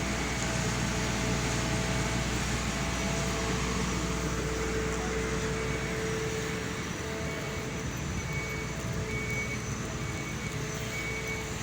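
An engine running steadily, with a steady hum and a faint high tone that comes and goes.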